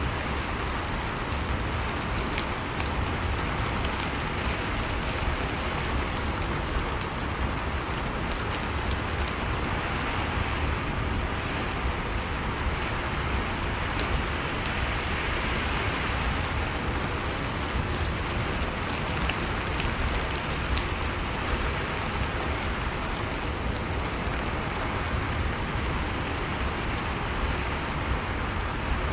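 Steady rain ambience: rain falling and drops pattering on a surface, with a low rumble underneath and scattered single drop ticks.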